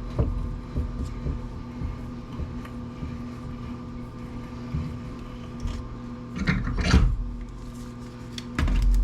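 Steady hum with light clicks and clatter of tools and metal parts being handled during disassembly, with a louder burst of knocks about six and a half seconds in and a low thump near the end.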